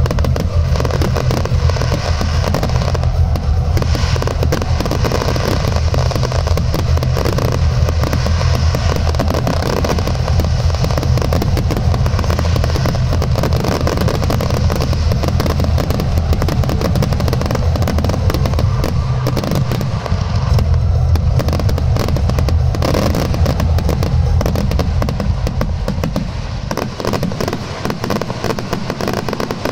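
Fireworks final barrage: a dense, continuous string of shell bursts and crackling over a heavy low rumble, easing off over the last few seconds.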